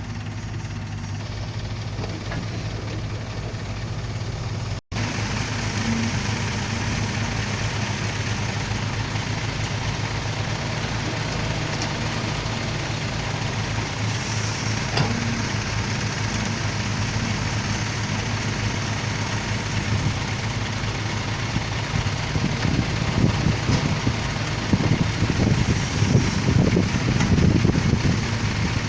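Diesel engine of a dump truck running steadily, with a brief dropout about five seconds in; the engine grows louder and rougher over the last several seconds.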